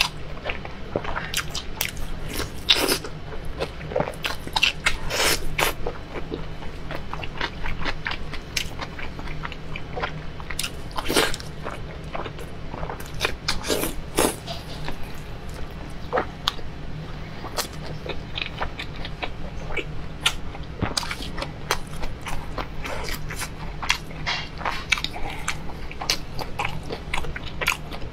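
Close-miked biting and chewing of glazed braised pork belly, with many irregular short mouth clicks over a steady low hum.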